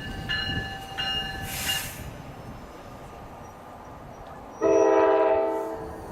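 Train horn giving one short blast about two-thirds of the way through, the loudest sound here, after high steady tones that sound in short bursts over the first two seconds.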